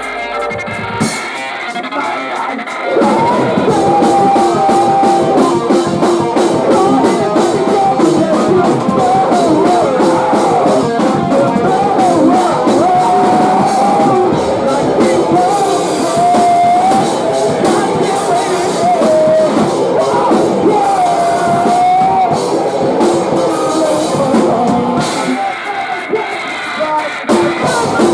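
Post-hardcore band playing live, with electric guitars, drum kit and vocals. A thinner opening runs for about three seconds, then the full band comes in loud with a melody line wavering over it. The bass and drums drop away briefly near the end.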